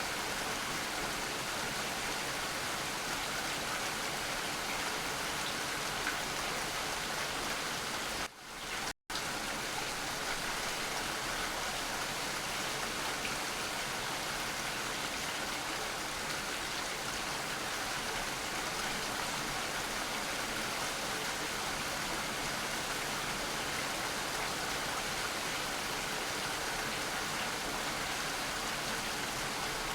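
Steady, dense rain falling. The sound dips and cuts out for well under a second about eight seconds in, then resumes unchanged.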